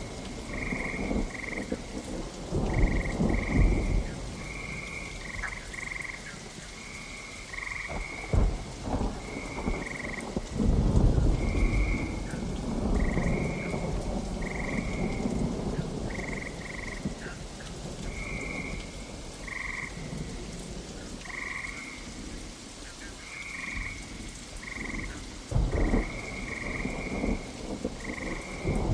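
Steady rain with rolls of thunder: low rumbles near the start, a longer swell from about 8 to 15 seconds in, and another near the end. Frogs call throughout in short, repeated high notes.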